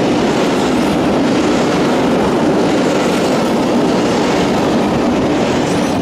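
Freight train of covered hopper wagons rushing past at speed, a steady loud rumble and rattle of wheels on the rails. The last wagon goes by near the end.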